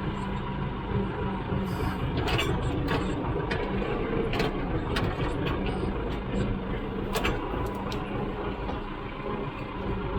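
Tractor engine running steadily, with several short sharp knocks over it.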